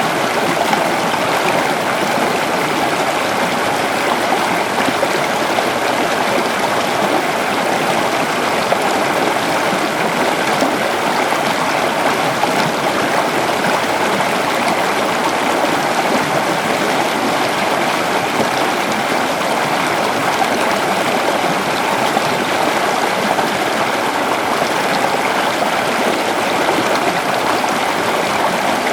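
A shallow river flowing, a steady rushing and gurgling of water running over stones.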